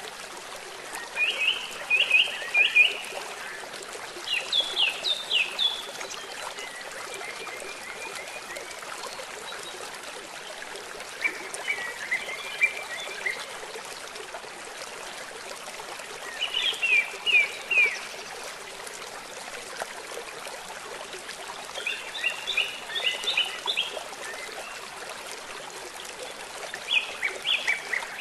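Steady hiss of rain and flowing river water, with a bird singing short phrases of three to five quick, high chirps about every four seconds.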